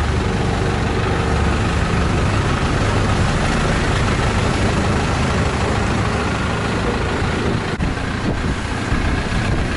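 Long-tail boat's engine running steadily, a loud low drone.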